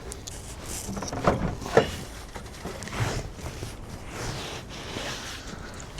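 A few light knocks and scraping of parts being handled in an engine bay, the two sharpest knocks close together a little over a second in.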